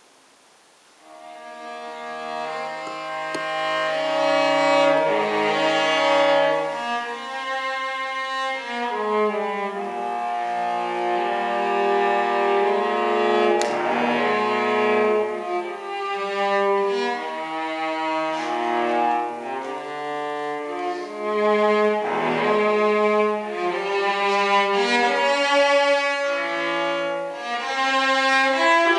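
Cello played with a bow, a solo line of sustained notes and double stops, starting softly about a second in and growing louder.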